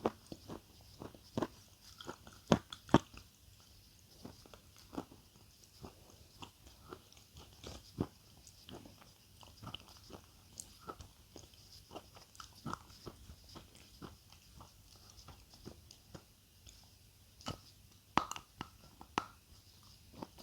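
Crunchy food being bitten and chewed close to the microphone: a steady run of sharp, irregular crunches, loudest a few seconds in and again near the end.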